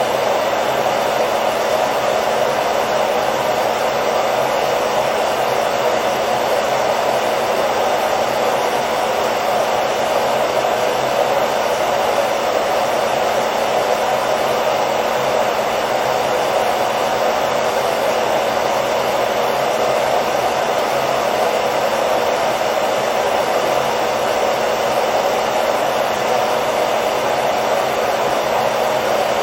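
Hair dryer running steadily, a continuous rushing blow of air over a faint motor hum, with no change in speed or pitch.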